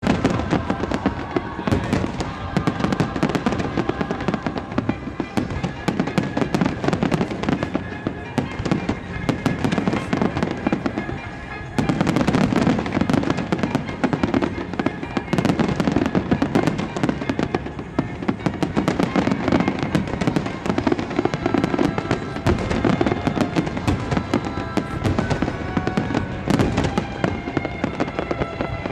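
A dense barrage of aerial firework shells bursting, cracks and booms following one another in rapid succession, with music playing along underneath. The level jumps suddenly about twelve seconds in.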